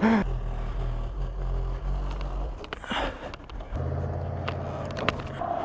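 Motor vehicle engines running low and steady among the bikes and cars, under rushing wind noise. The engine sound fades for a moment about three seconds in, then returns a little higher in pitch.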